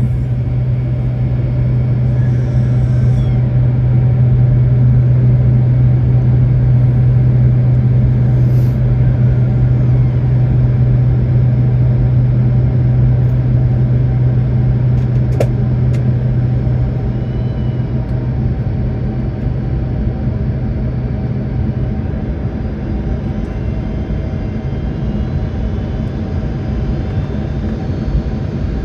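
Airliner cabin noise inside a Boeing 767-400: a steady drone of engines and airflow with a strong low hum that fades away about 22 seconds in. There is one brief click about halfway through.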